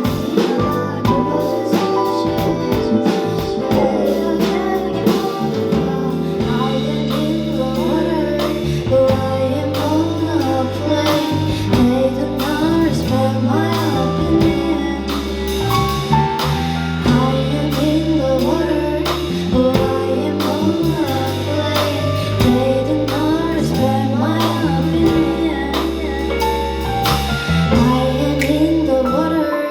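Live pop song: a female singer singing over a band with bass and drum kit.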